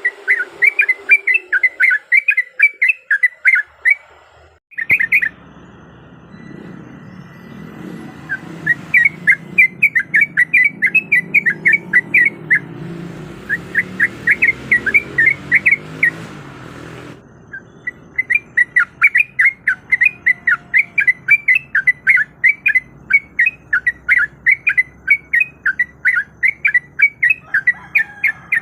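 Yellow-vented bulbul (trucuk) singing: fast runs of bright, bubbling chirps repeated in bursts, with short breaks between them.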